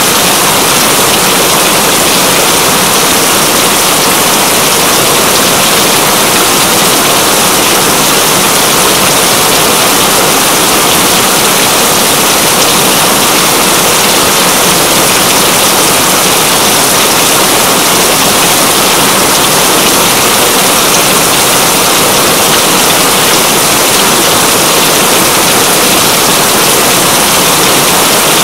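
Heavy rain falling as a loud, steady rush with no breaks or changes.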